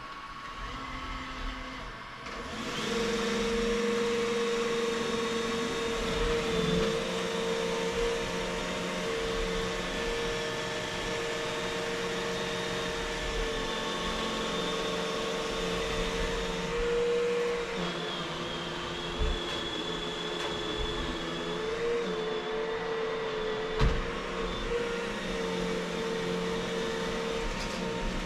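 Vacuum cleaner motor running with a steady whine that grows louder about two seconds in, its pitch dipping now and then as the nozzle's airflow changes. Two sharp knocks come late on.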